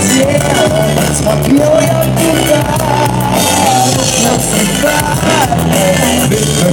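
Live pop band playing through a PA system: a melody line moves over a stepping bass line and a steady drum beat.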